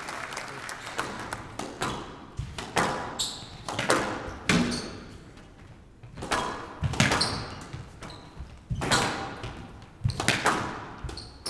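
Squash rally: the ball is struck hard by rackets and smacks off the court walls, sharp hits every second or two with a hall-like echo, mixed with brief high squeaks of court shoes.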